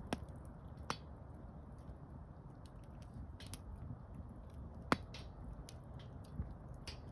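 Campfire burning: a steady low rush with scattered crackles and sharp pops of burning wood, the loudest pop about five seconds in.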